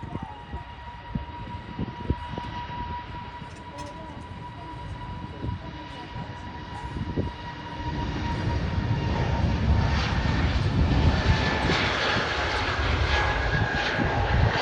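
Boeing jet airliner taking off: the engines run with a steady whine over a rumble, and the roar grows clearly louder about two-thirds of the way through as the aircraft powers up.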